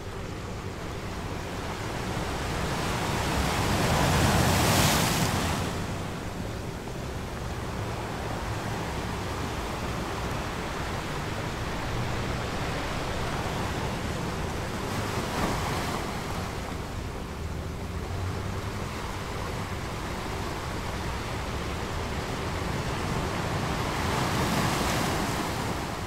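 Ocean surf: a steady wash of waves, with larger waves swelling and breaking about every ten seconds, the loudest about five seconds in.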